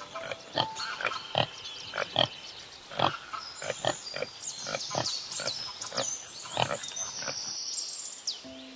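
A herd of red deer calling: a rapid run of short grunting calls, several a second, with birds whistling high above from about three seconds in.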